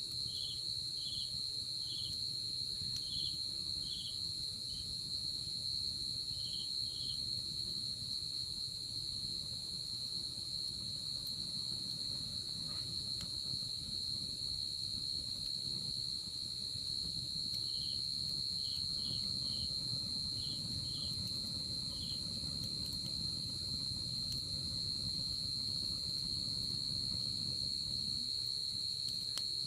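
Night insects calling: one unbroken high-pitched trill, with a second insect chirping in short evenly spaced pulses, in runs at the start and again about two-thirds of the way through. A low steady rumble sits underneath.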